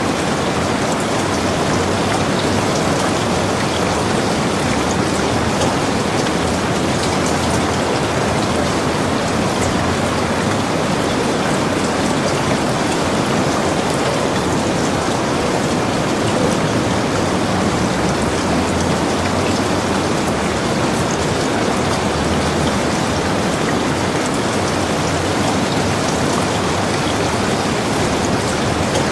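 Heavy rain falling steadily on a log cabin, a dense even hiss with scattered drop ticks.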